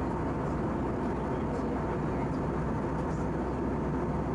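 Steady cabin noise of an Airbus A319-111 in flight, heard from inside the passenger cabin: a constant rush of airflow over the fuselage with the low drone of its CFM56 engines underneath.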